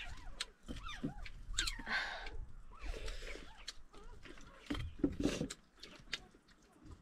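Close-up mukbang eating sounds: chewing, lip-smacking and crunching of fried food, made up of many short wet clicks with a few noisier crunchy bites.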